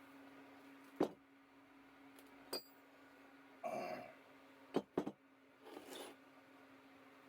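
A steady low hum with a few sharp knocks and clinks of hard objects being handled: single ones about a second in and two and a half seconds in, and a quick pair near five seconds. Two brief scraping rustles come about four and six seconds in.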